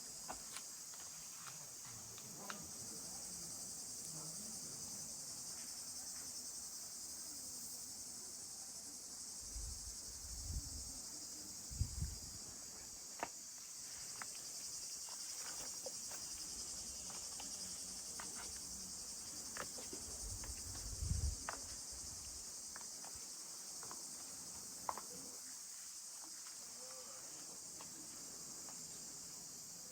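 A steady high-pitched chorus of insects chirring, with a few scattered clicks and soft low thumps.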